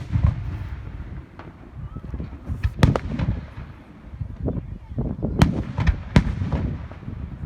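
Fireworks going off: several sharp bangs and scattered crackles over a low rumble, the loudest reports about three, five and a half and six seconds in.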